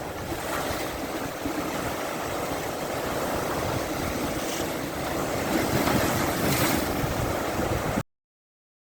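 Big waves breaking and washing on Lake Superior in a strong wind, with wind buffeting the microphone; two louder wave surges near the end before the sound cuts off abruptly.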